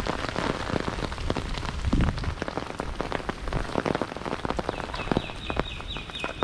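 Rain falling, with many drops pattering sharply close to the microphone over a steady hiss. Near the end a brief high chirping repeats several times.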